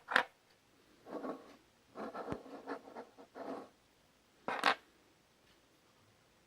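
Scratching and scraping of small hard pieces being handled, in short bouts: a sharp scrape at the start, a run of rubbing scratches through the middle, and another sharp scrape about four and a half seconds in.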